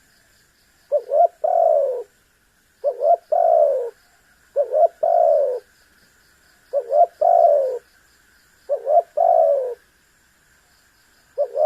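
Spotted dove (tekukur) cooing: a repeated phrase of two short notes followed by a longer note that falls in pitch, about every two seconds, six times.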